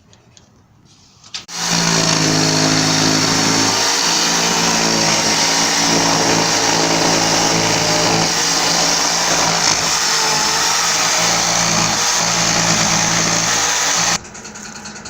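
Electric jigsaw ripping along a board of wood, starting about a second and a half in and running steadily at a loud level for about twelve seconds before stopping abruptly near the end.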